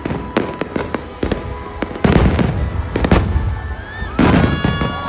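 Aerial fireworks bursting in quick succession: a stream of sharp cracks, with heavier booms about two, three and four seconds in.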